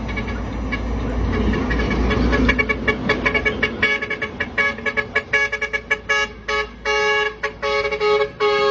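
A vehicle horn, likely a truck's, blowing a rapid string of short toots, several a second, over the low rumble of a passing heavy vehicle. The toots start about three seconds in and grow louder.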